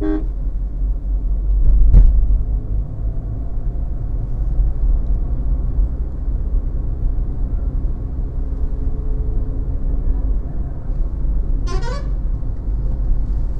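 Steady low road and engine rumble from inside a moving car, with a thump about two seconds in and a short vehicle horn toot near the end.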